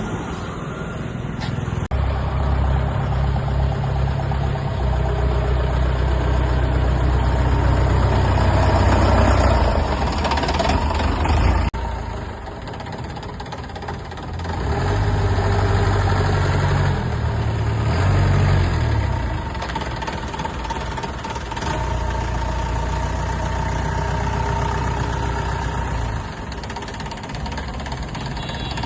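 Restored Mahindra jeep's engine running, its revs rising and falling several times: louder spells of a few seconds broken by quieter stretches, with a sudden drop about twelve seconds in.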